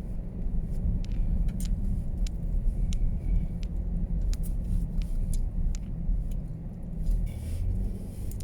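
Steady low road rumble of a car driving, heard from inside, with scattered faint high ticks.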